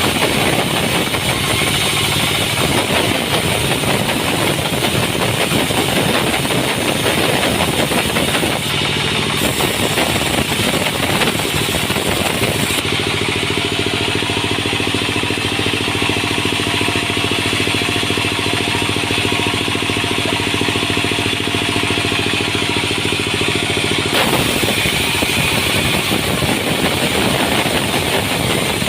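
Sawmill machinery with its engine running steadily and loudly. The sound is rough and noisy at first, settles into a smooth, even hum about a third of the way in, and turns rough again after about ten seconds.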